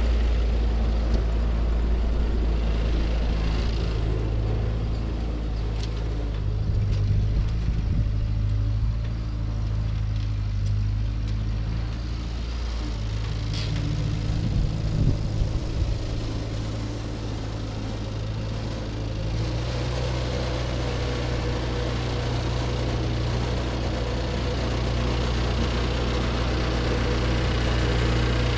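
Ford 9N/2N tractor's four-cylinder flathead engine running steadily while it pulls a Ferguson cultivator, with some knocking and clatter around the middle.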